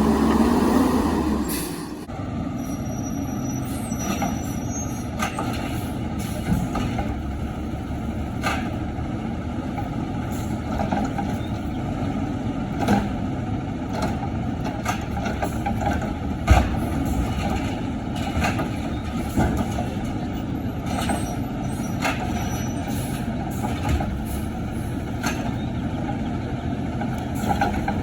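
LNG-powered side-loader garbage truck running on its route. It is louder for the first two seconds, then runs steadily, with scattered knocks and clanks from the loading work, the sharpest about halfway through.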